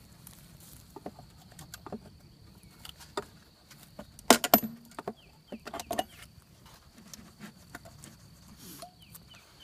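Scattered clicks and knocks as the metal syrup feeder can is worked out of a wooden honeybee package box, with the loudest cluster of sharp knocks about four seconds in and more about six seconds in. A faint steady high tone runs underneath.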